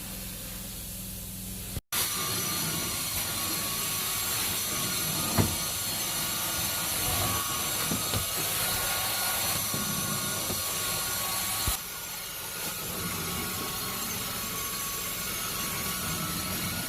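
Vacuum cleaner running over a heavily soiled carpet, with a gritty crunching of debris and dog hair being sucked up. A steady machine hum first, then after a brief cut about two seconds in the vacuum noise comes in louder, with a sharp knock twice, around five and twelve seconds in.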